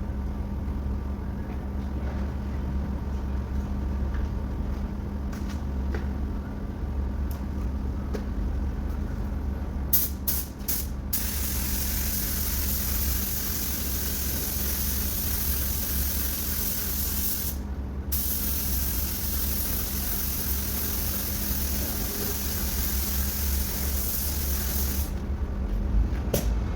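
Compressed-air spray gun spraying paint: four quick trigger bursts of hiss, then long steady passes with one short break, stopping shortly before the end. A steady low hum runs underneath.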